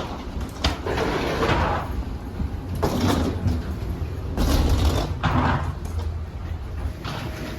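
Rustling and handling noises in several swells, with a few sharp knocks or clicks, over a steady low cabin hum.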